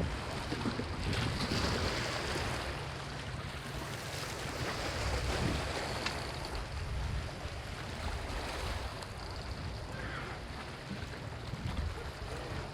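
Sea waves washing onto a sandy beach, swelling and easing, with wind rumbling on the microphone.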